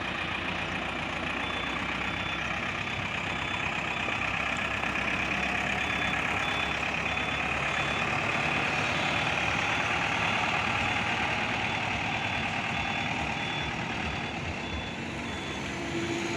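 Heavy truck engine running steadily, with a reverse-warning beeper sounding a short high beep over and over at an even pace.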